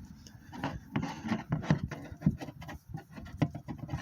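Hands handling the oil filter cap and its parts: irregular light knocks and clicks with rubbing and scraping between them.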